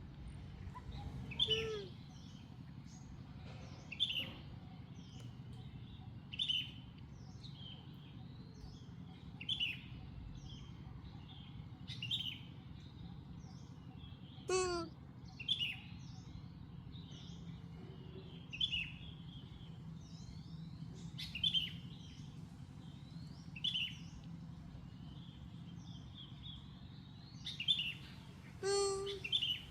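Bird calls: a short high chirp repeated about every two and a half seconds, with three longer falling calls, over a steady low hum.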